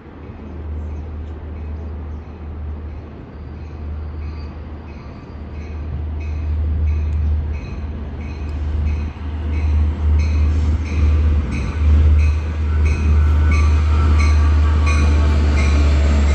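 Long Island Rail Road train approaching and passing, growing steadily louder with a deep rumble and a regular high clatter about twice a second.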